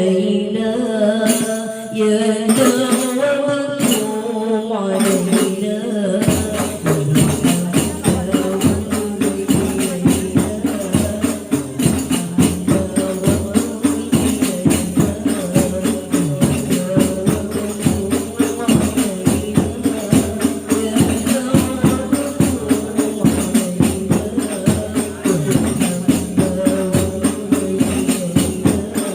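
Sholawat sung by a group, joined about six seconds in by hadroh rebana frame drums playing a dense, steady rhythm under the singing.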